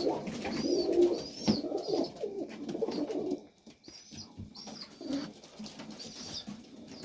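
Pigeons cooing, with short high chirps repeating over the top; the cooing dies down after about three seconds.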